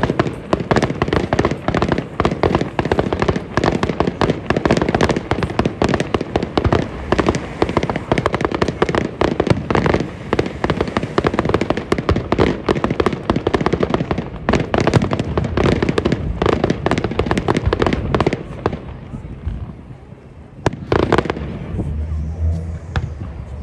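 Fireworks display: a dense, rapid barrage of bangs and crackles that dies away about nineteen seconds in, followed by a couple of last single bangs.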